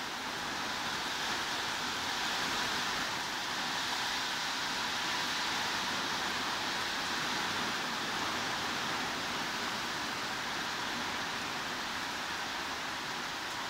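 Heavy rain falling, a steady, even hiss with no single drops standing out.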